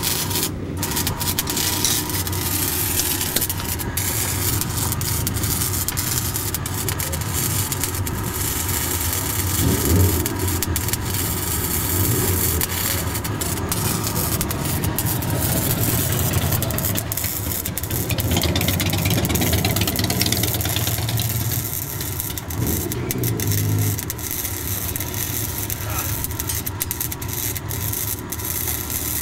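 Arc welding on a motorcycle's snapped handlebars: a steady crackling hiss from the arc, with an engine running steadily underneath and a few louder swells.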